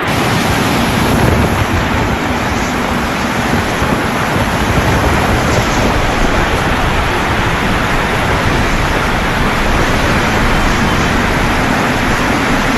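Rain pouring steadily in a thunderstorm: a dense, even hiss with a low rumble underneath.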